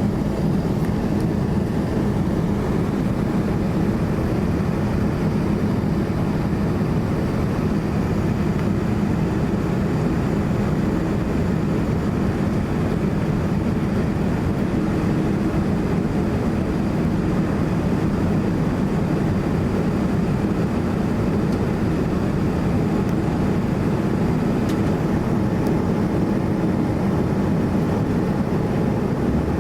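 Steady engine and airflow noise inside the cabin of a Boeing 787-9 airliner in flight, with a constant low rumble and no change in level.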